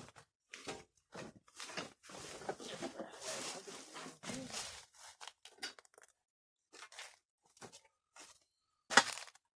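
Rustling and crunching in dry leaves as someone moves and shifts around under the truck, with scattered clicks and one sharp knock near the end.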